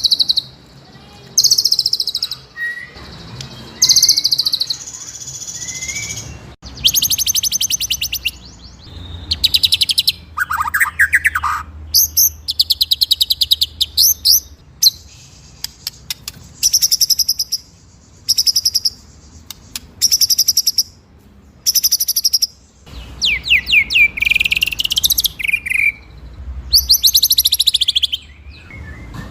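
White-rumped shama (murai batu) singing loud, high phrases one after another, many of them fast rolling trills, with a lower swooping phrase about ten seconds in.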